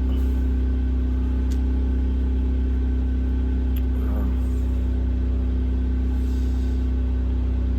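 Firman portable generator running steadily, a constant low engine hum heard from inside the truck camper, with a couple of faint clicks.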